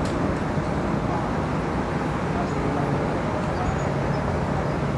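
Aircraft engines running: a steady low rumble, with a faint steady hum joining about three seconds in.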